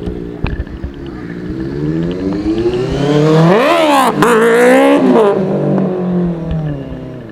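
Superbike engine revving hard, its pitch climbing steeply for about two seconds. About four seconds in the pitch drops sharply, then it climbs again before falling and fading away.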